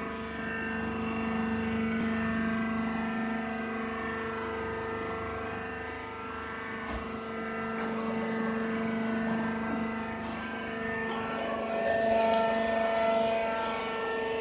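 Rice husk baling machine running: a steady mechanical drone with a low hum, which grows a little louder with added higher tones about eleven seconds in.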